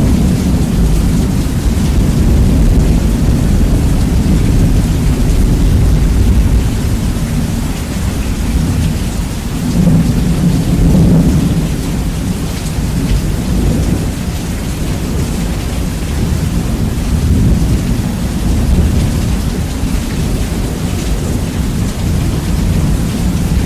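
Steady heavy rain with rolling thunder, bass-boosted so that a deep rumble dominates. The rumble swells louder about ten seconds in.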